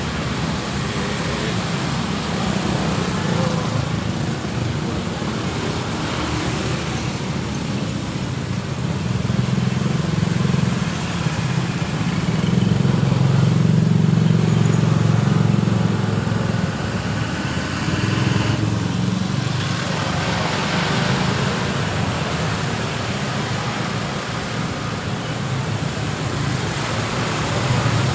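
Steady road traffic passing close by, a continuous rumble of vehicle engines and tyres, with one louder pass about halfway through.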